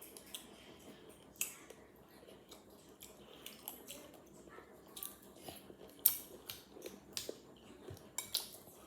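Spoon clinking and scraping against a bowl of fruit and coconut-milk cereal: scattered sharp clicks, the loudest about six seconds in.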